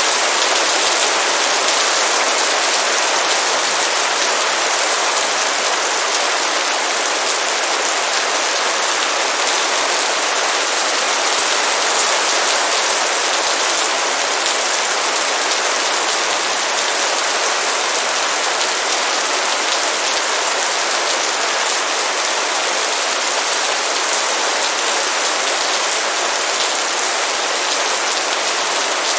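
Heavy rain pouring steadily, a dense even hiss of countless drops hitting a surface.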